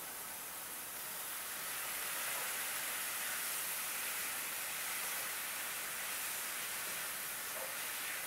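Char koay teow (flat rice noodles, chili paste and bean sprouts) sizzling in a hot Lodge cast iron skillet as a wooden spatula stirs and tosses them: a steady high sizzle that gets a little louder about two seconds in.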